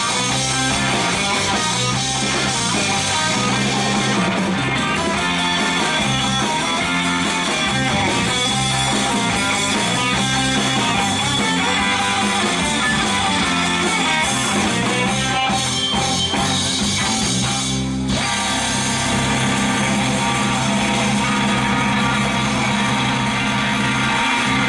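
Live band playing an instrumental rock passage: guitar lead over bass and drum kit.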